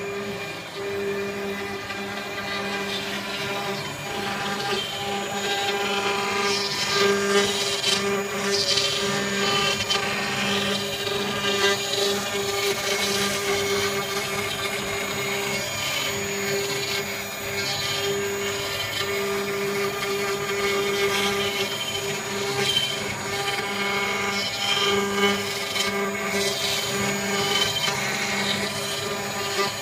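CNC-S0609S engraving-milling router's spindle running at speed with a steady whine while it cuts, with a rough cutting noise that rises and falls as the tool works.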